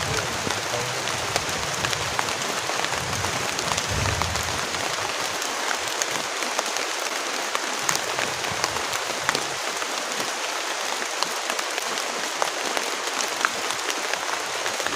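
Heavy rain falling steadily, an even hiss with many individual drops ticking sharply against surfaces.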